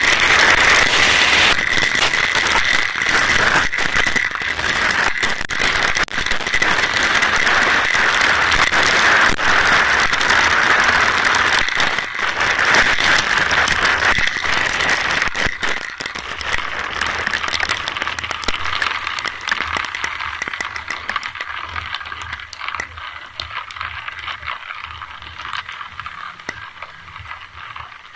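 Rain falling: a dense crackling patter of drop hits, steady at first, then thinning and growing quieter over the last ten seconds or so.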